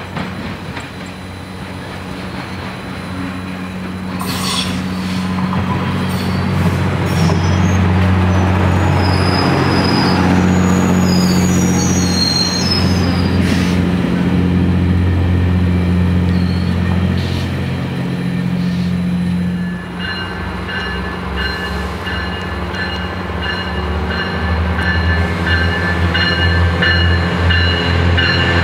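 Diesel train running past close by, its engine a steady low hum. High-pitched wheel squeal comes in about two-thirds of the way through and goes on to the end.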